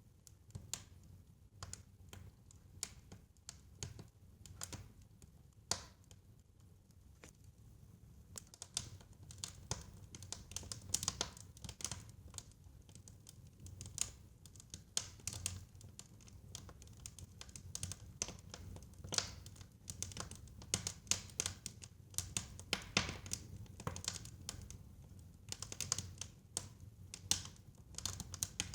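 Fire crackling in a fireplace: irregular sharp pops and snaps over a low steady rumble. The pops come sparsely at first and grow thicker from about eight seconds in.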